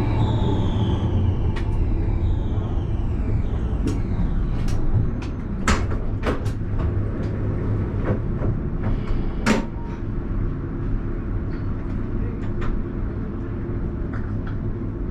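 Alstom Citadis tram running with a steady low hum and rumble, its electric drive whine falling in pitch and fading over the first few seconds as it slows. Several sharp clunks and clicks follow in the middle.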